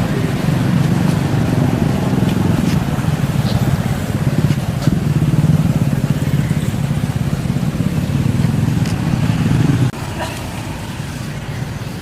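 An engine running steadily with a low hum, cutting off abruptly about ten seconds in.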